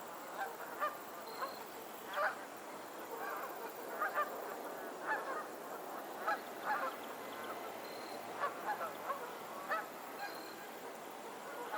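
A flock of geese honking: many short calls, overlapping and irregular, over a steady background hiss.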